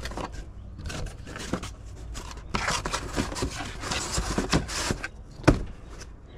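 Irregular scraping and rubbing from parts and packaging being handled, with one sharp knock about five and a half seconds in.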